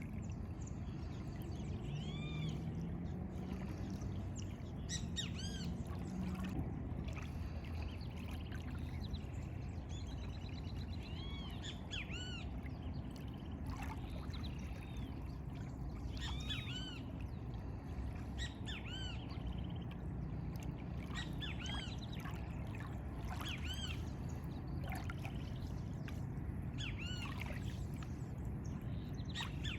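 Birds calling throughout, short arched call notes repeated every second or two, over a steady low background noise of water and wind.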